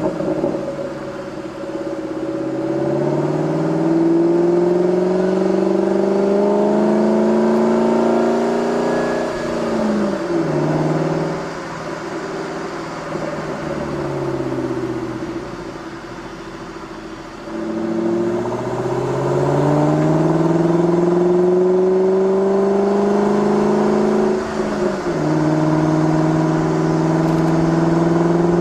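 V8 car engine accelerating hard through the gears: the pitch climbs steadily in each gear and drops sharply at each upshift, with a quieter stretch in the middle before it pulls hard again.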